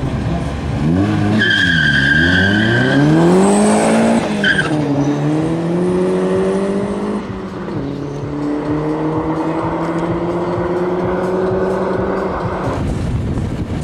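Car accelerating hard from a standing start: the tyres squeal at the launch, then the engine note climbs, drops at a gear change about four and a half seconds in, climbs again, drops at a second change about seven and a half seconds in, and climbs until it cuts off near the end.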